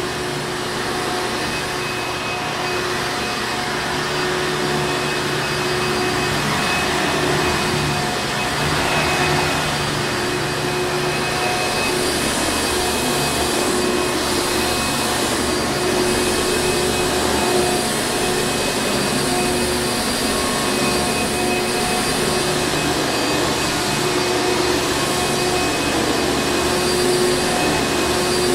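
Hoover Encore Supreme upright vacuum cleaner running continuously, a steady motor hum and rush of air with a constant whine.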